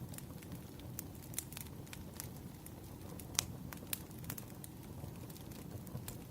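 Firewood burning, crackling with irregular sharp pops over a low steady rush of flame; the loudest pop comes a little past the middle.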